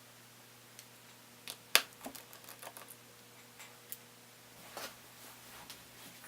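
Scattered small clicks and taps of tiny laptop screws and parts being handled on a work surface, with one louder click a little under two seconds in.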